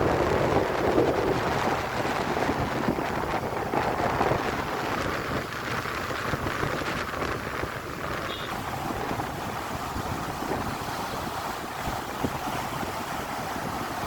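Strong sea wind buffeting the microphone over the wash of waves, loudest in a gust at the start and then steadier.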